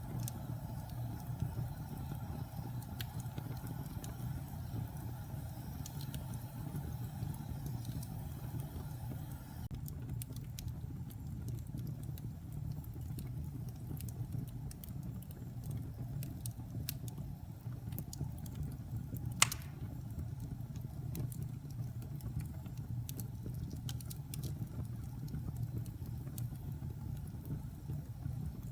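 Wood fire burning in a fireplace: a steady low rumble of flames with scattered small crackles, and one sharp pop about two-thirds of the way through.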